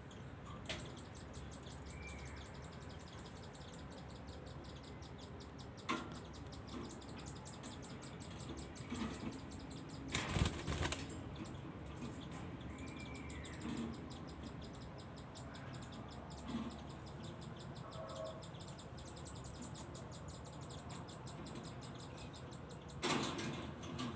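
Pet budgerigars: a few faint short chirps and now and then a brief flutter of wings, the loudest about ten seconds in and another near the end, against a quiet background.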